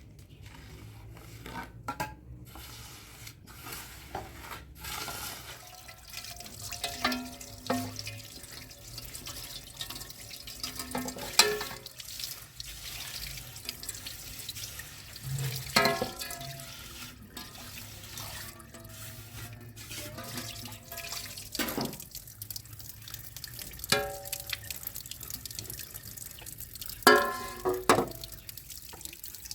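Water running and splashing as something is washed by hand, with several sharp knocks and clinks that ring briefly.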